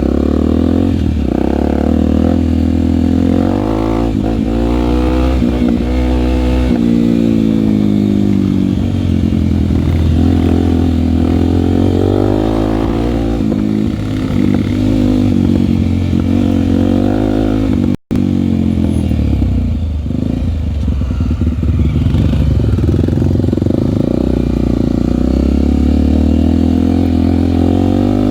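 Honda single-cylinder four-stroke trail bike engine running, its pitch rising and falling again and again with the throttle. The sound cuts out for an instant about eighteen seconds in.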